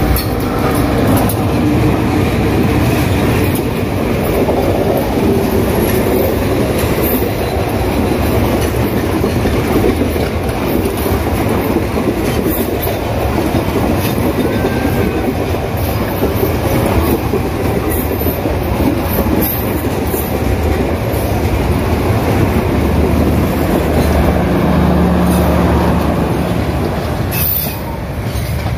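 Diesel-hauled passenger train passing close by, a loud, steady run of wheel and rail noise as the coaches roll past, which eases a little near the end as the last coach moves away.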